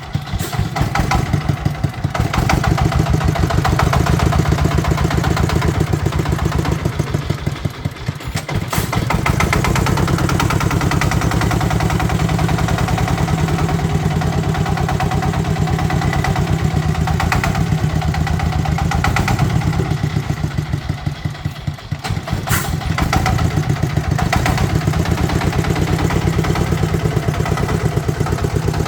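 Tractor engine running with a fast, even chugging beat. It eases off briefly about eight seconds in and again around twenty-one seconds, then picks back up.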